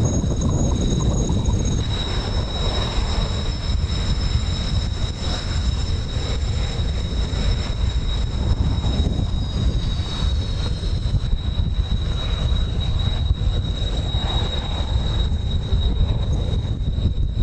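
Kawasaki T-4 jet trainers' engines in flight: a steady high whine of several tones, some gliding down in pitch about ten seconds in, over a constant low rumble of strong wind on the microphone.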